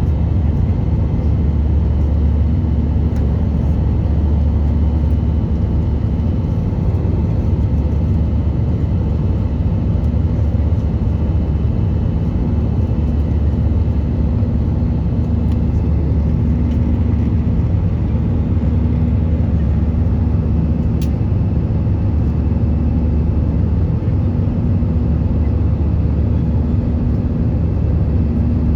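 Steady cabin noise of an Airbus A320 in flight: a deep rumble of engines and airflow, with a low hum that pulses every second or two. A single small click about two-thirds of the way through.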